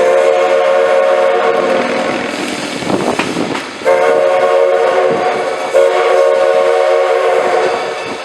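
Steam whistle of Baldwin 2-6-6-2T Mallet #110 blowing a steady chord in long blasts, a warning for a grade crossing: one of about three seconds, then after a short break a longer one that is sounded again near 6 s, over wind on the microphone and train running noise.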